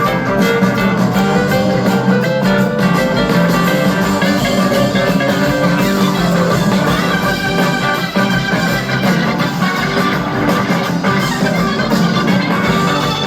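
Live rock band playing an instrumental passage without vocals, with guitar over a drum kit, loud and steady throughout.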